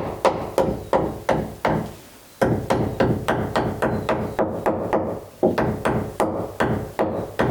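Hammer tapping on the wooden floor timbers of an old boat, about three blows a second with a short pause about two seconds in. The timber is being sounded for rot: sound wood rings, soft wood gives a dull thud.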